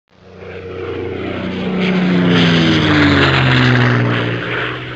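An engine passing by, as in an aircraft flyby: it swells to its loudest about halfway through, and its pitch falls steadily as it goes past.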